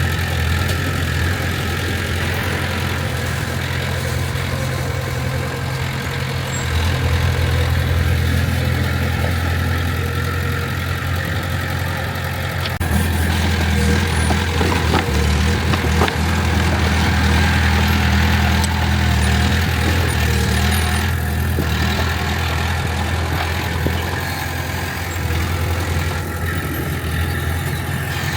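Heavy diesel engine of earthmoving machinery running continuously. It shifts in note about seven seconds in and gets louder from about halfway, as it takes more load. A few sharp clanks come briefly in the middle.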